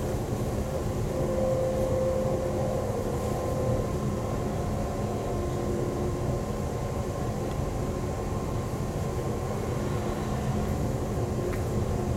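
Inside a Class 350 Desiro electric multiple unit running at speed: a steady rumble of wheels on the track, with a few faint steady tones over it.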